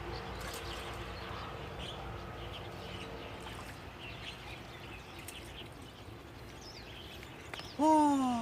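Quiet outdoor background with faint, scattered bird chirps. Near the end a loud, drawn-out voice call slides down in pitch.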